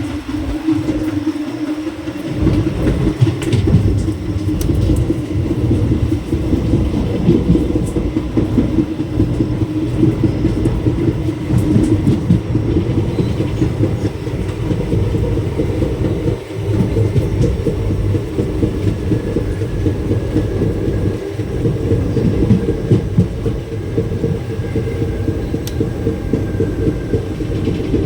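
Train running on rails: a loud, steady rumble with a constant droning hum. The deep rumble grows fuller about two seconds in.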